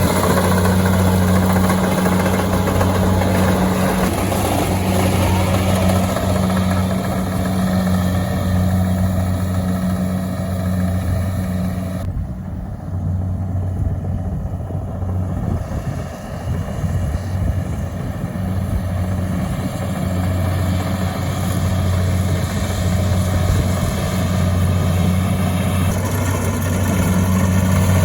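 An engine running steadily at an even speed, with a constant low hum. About twelve seconds in, the higher part of the sound goes duller for a few seconds before returning.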